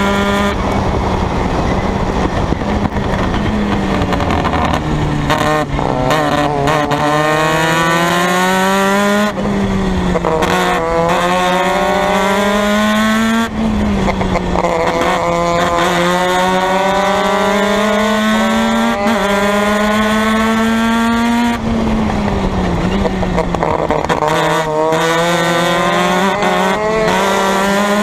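Formula Mazda race car's rotary engine at full throttle, heard onboard. Its note climbs through the gears with sharp drops at each upshift, sinks under braking and downshifts about three quarters of the way through, then rises again.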